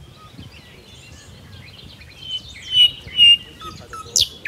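Wild birds chirping and calling. A few clear whistled notes about two to three seconds in are the loudest, then quick downward-sweeping calls follow near the end.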